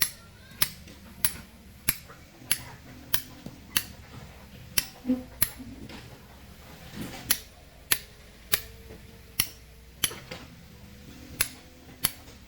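Hand hammer striking steel on stone in a steady rhythm while splitting rock by hand: a sharp clink about every two-thirds of a second, pausing briefly around the middle.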